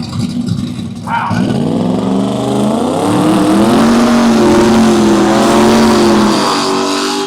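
Drag-racing car's engine accelerating hard down the strip. Its pitch climbs steeply over about two seconds, then holds high and wavers as it gets louder, easing off near the end.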